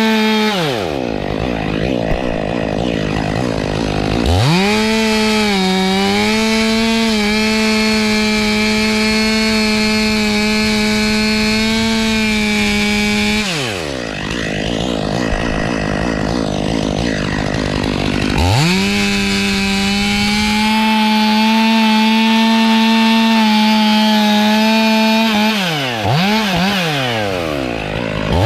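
Two-stroke chainsaw run at full throttle in two long cuts, its pitch dipping briefly under load, dropping back to idle between them and blipped up and down near the end.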